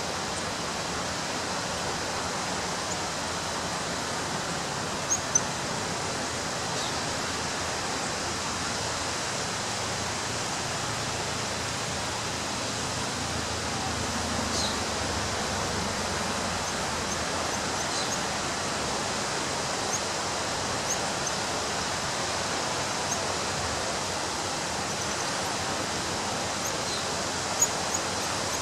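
Ocean surf breaking on a beach, a steady rushing roar with little rise and fall. A few faint short high chirps or ticks are scattered through it, and there are two brief louder ticks about five seconds in.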